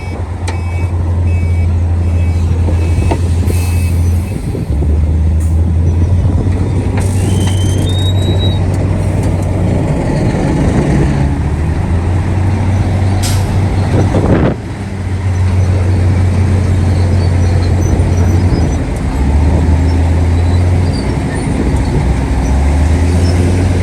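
Heavy diesel earthmoving machinery, bulldozer and dump trucks, running under load, the engine drone stepping up and down in pitch several times. A few short hisses of air release cut in over it.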